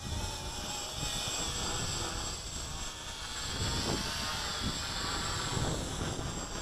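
Whine of a small radio-controlled model aircraft's electric motor and propeller in flight, its pitch wavering up and down with throttle.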